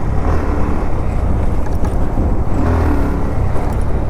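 Motorcycle riding along a road, its engine and road noise forming a steady, loud low rumble.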